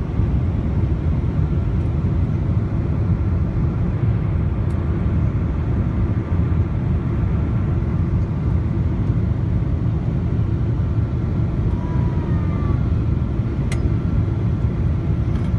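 Steady low rumble of cabin noise in a Boeing 777-200ER with Pratt & Whitney PW4090 engines, engine and airflow noise, with a faint steady whine above it.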